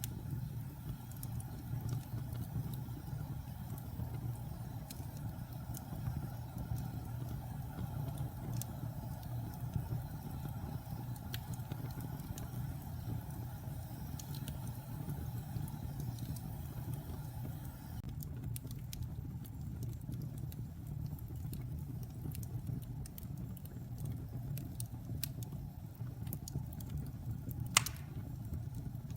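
Wood fire burning in a fireplace: a steady low rumble from the flames with scattered crackles and pops, and one sharper pop near the end.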